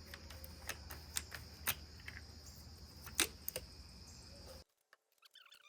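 Irregular sharp clicks and taps, as of plastic caps and containers being handled, over a steady high-pitched whine of insects. About four and a half seconds in, the sound cuts abruptly to quiet with short repeated chirping calls.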